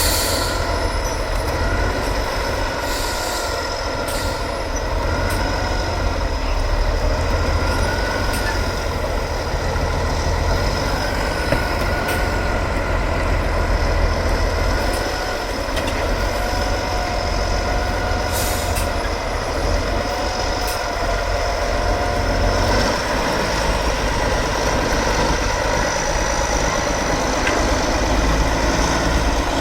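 Heavy truck's diesel engine running under varying load, its revs rising and falling gently, with a couple of brief hisses about 3 and 18 seconds in.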